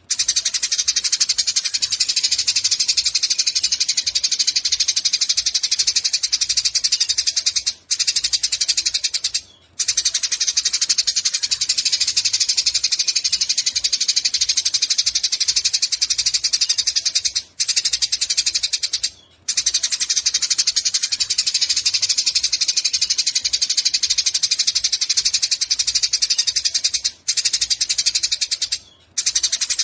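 Eurasian tree sparrow chirping nonstop in a fast, dense stream of short, high chirps, the excited 'gacor' calling. The stream breaks off briefly a few times.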